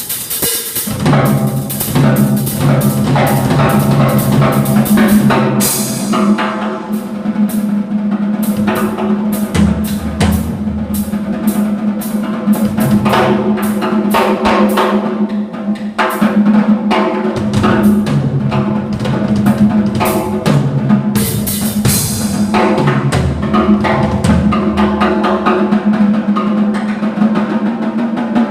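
Music with a drum kit playing a busy beat of snare, bass drum and cymbal hits over sustained bass notes and chords.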